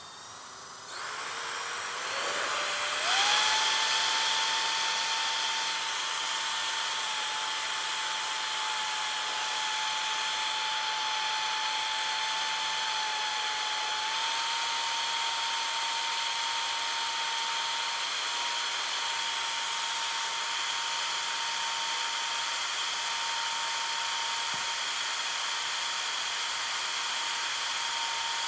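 An electric power tool's motor spins up in a rising whine over the first few seconds, then runs at a steady high pitch over a hiss.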